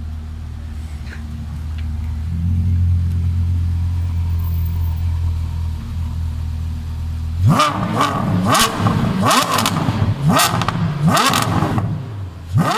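Porsche Carrera GT's 5.7-litre V10 idling steadily, then revved in five quick throttle blips, each rising and falling sharply, starting about halfway through, with one more blip near the end.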